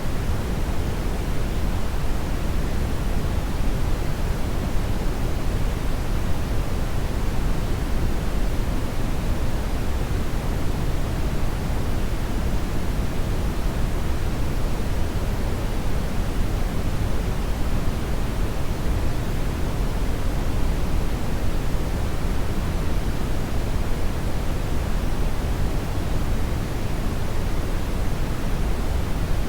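Hair dryer blowing steadily: an even, unchanging rush of air noise, heaviest in the low end.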